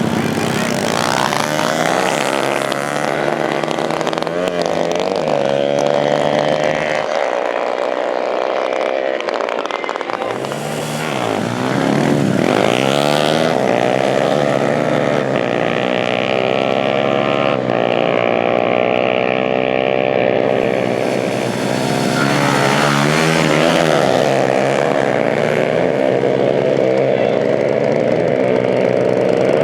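Several dirt bike engines running and revving, their pitches rising and falling over one another, with one sweeping sharply down and back up about ten to thirteen seconds in.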